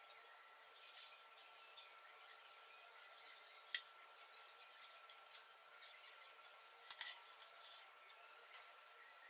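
Near silence with faint scratching and two light clicks, one a little over a third of the way in and one about three-quarters through, over a faint steady high tone.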